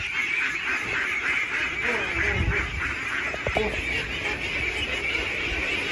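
A large flock of domestic ducks quacking continuously, many calls overlapping into a dense, steady chatter.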